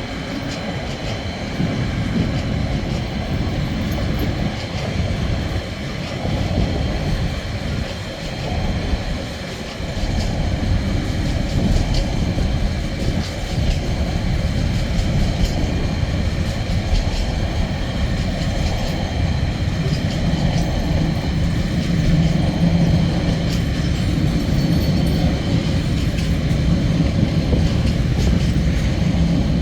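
Freight train rolling past, its wagon wheels rumbling and clattering on the rails, with a faint steady high ringing from the wheels and rails. A deeper steady hum builds over the last third.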